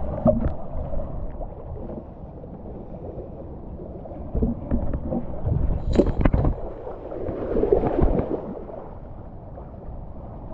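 Water splashing and gurgling, with wind rumbling on the microphone; a few sharp knocks come about six seconds in and a louder rush of water about eight seconds in.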